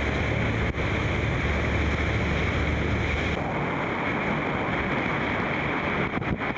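Steady rushing noise of the Iguazu waterfalls' falling water, mixed with wind on the microphone; a low rumble underneath drops away about three and a half seconds in.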